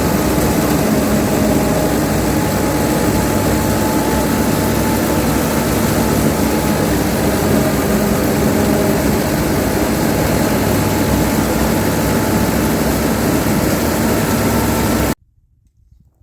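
A steady, loud engine-like drone with a low hum, cutting off suddenly about fifteen seconds in.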